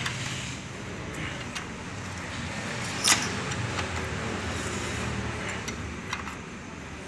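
Metal clinks and clicks of a wrench on a Hyundai i20 Kappa petrol engine as it is turned over by hand to check the cam and crank timing marks, with one sharp clink about three seconds in, over a steady low hum.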